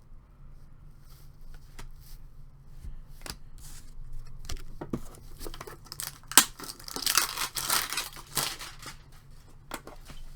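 Light clicks and handling taps, then a sharp snap about six seconds in and about three seconds of tearing and crinkling as the wrapping of a trading-card tin and its packs is torn open.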